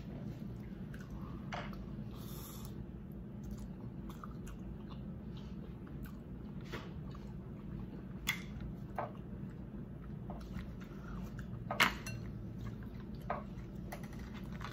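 Close-miked chewing of seafood-boil food, with scattered sharp wet mouth smacks, the loudest about twelve seconds in, over a steady low hum.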